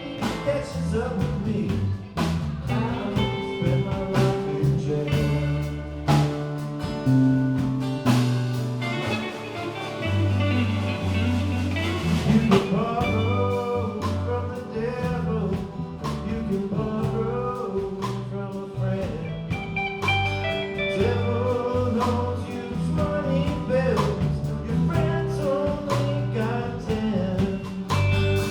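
Live band playing a song: bass, drums and guitar with a male voice singing.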